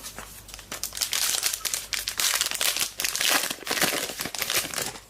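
Plastic trading card pack wrapper crinkling and crumpling in the hands as it is torn open and handled.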